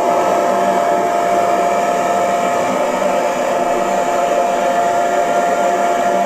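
Electric hair dryer running steadily: a rush of blown air with a constant motor whine.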